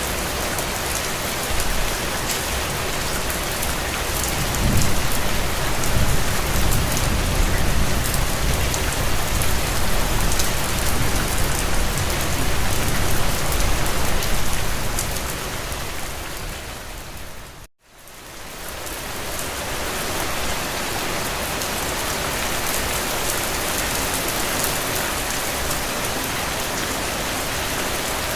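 Steady rain pattering on a window, with a low rumble underneath for several seconds in the first half. About two-thirds of the way through the sound fades quickly to silence and fades back in.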